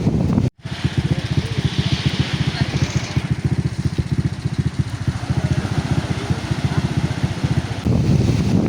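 A small engine running with a rapid, even chugging, starting after a brief cut about half a second in and giving way to wind on the microphone about a second before the end.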